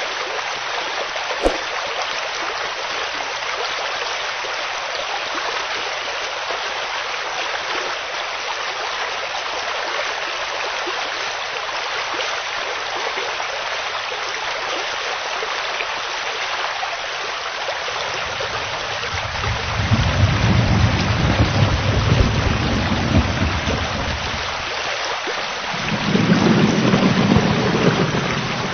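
Steady downpour of rain hissing, with a single sharp click about a second and a half in. Low rolling thunder rumbles about two-thirds of the way through, lasting several seconds, then a second, shorter rumble follows near the end.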